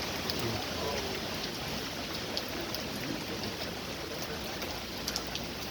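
Steady heavy rain during a thunderstorm, a continuous hiss with scattered ticks of drops striking nearby surfaces.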